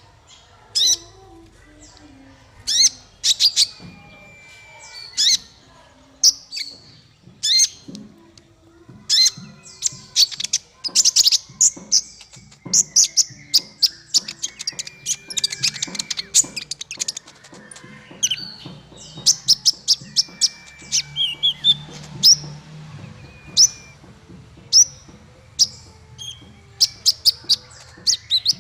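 Small songbird singing a fast string of sharp, high chirps and clicks with a few short whistled notes, busiest through the middle. It is a masteran, a tutor song played to caged songbirds to teach them calls.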